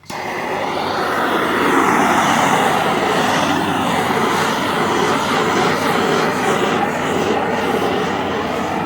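Handheld torch fired up and burning with a loud, steady rush of flame, used to pop air bubbles in freshly poured epoxy. It comes on suddenly at the start.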